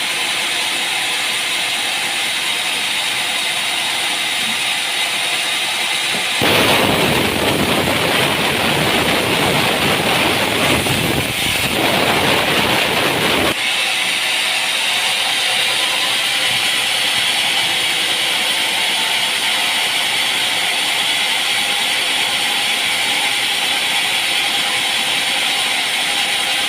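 Sawmill machinery running steadily. About six seconds in, a louder, harsher noise starts and lasts about seven seconds before dropping back to the steady running.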